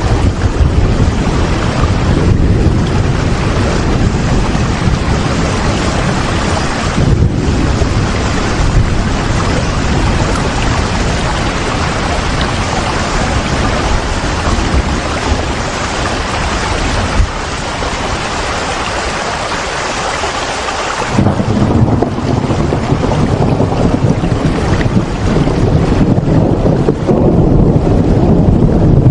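Steady heavy rain, a dense even hiss, over a low rumble. About twenty seconds in, the hiss thins and the low rumble grows louder.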